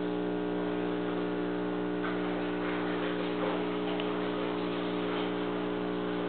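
Steady electric hum of aquarium equipment, many even tones held at a constant pitch, with a faint rougher rustle partway through.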